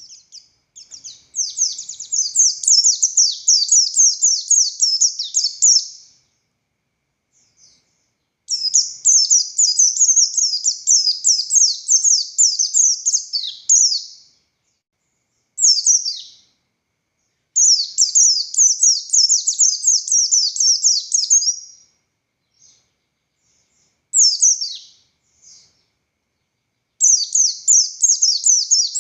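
Buxtoni white-eye (pleci) singing its long, rapid twittering song in phrases of about five seconds, separated by short pauses with a few brief single calls between them. The notes are high and come quickly one after another.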